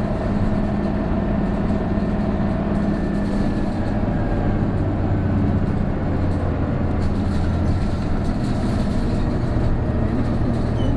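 Isuzu Erga route bus's turbo-diesel engine and driveline running under way, heard inside the passenger cabin. The engine note drops lower about four seconds in.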